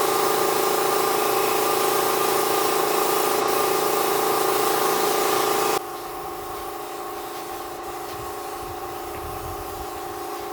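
A motor-driven machine running steadily with a hum and a hiss. About six seconds in it cuts abruptly to a quieter, similar running sound.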